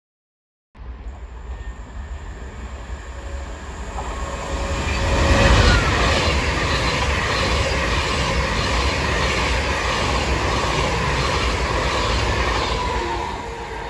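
A train running through the station on the rails: its noise builds to a peak about five seconds in, holds steady for several seconds, then begins to fade near the end.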